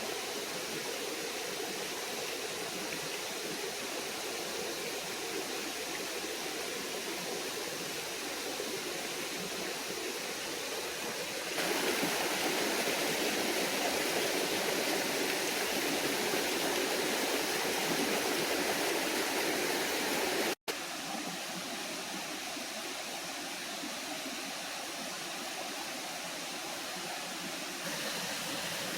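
Steady rushing and splashing of a small waterfall pouring into a forest stream. It gets louder about a third of the way in, breaks off for an instant about two-thirds in, and comes back softer.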